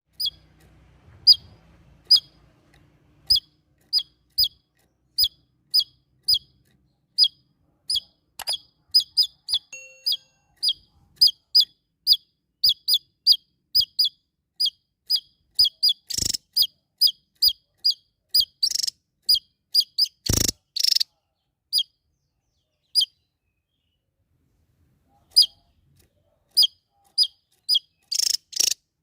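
A small songbird repeating a short, sharp chirp over and over, about two a second, with a few louder, harsher calls in the middle and a pause of a couple of seconds near the end.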